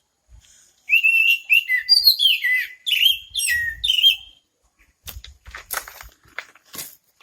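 A bird sings a rapid string of clear whistled notes, each sliding up or down in pitch, for about three and a half seconds. After it, a few scattered clicks and rustles are heard.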